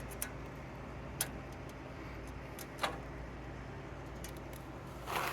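Steady low hum with a few scattered sharp clicks and taps, and a short rustling noise near the end.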